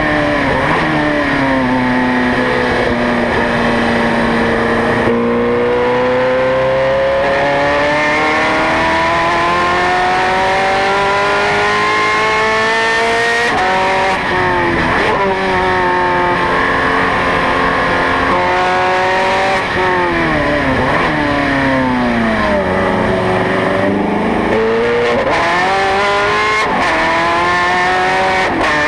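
Ferrari 430 Scuderia's V8 on track, pulling hard with its pitch climbing in long sweeps, cut by quick gear changes. In the second half the pitch falls steeply through downshifts, then climbs again as it accelerates out.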